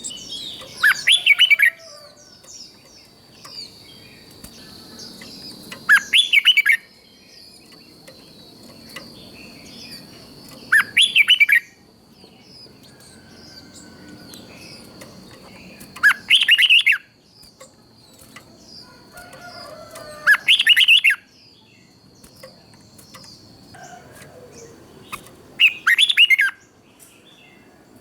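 Red-whiskered bulbul singing, repeating a short song phrase six times, about once every five seconds. Fainter high chirps and a thin steady high-pitched tone run beneath, and the tone stops near the end.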